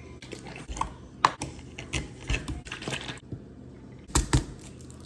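Irregular clicks and knocks of items handled on a kitchen counter while coffee is made, with sharp knocks about a second in and again near the end.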